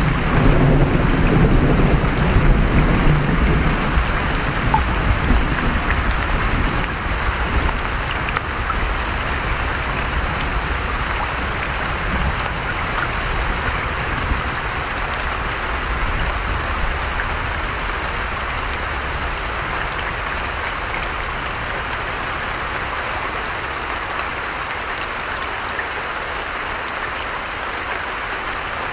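Steady heavy rain falling, with a low rumble of thunder in the first few seconds that dies away.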